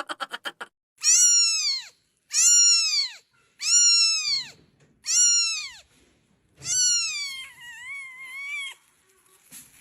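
A cat meowing five times, about once every second and a half, each call rising then falling in pitch. The last meow is longer and wavers up and down.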